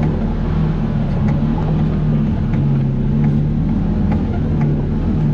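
Vehicle engine running at a steady pitch while driving, with scattered short knocks and rattles.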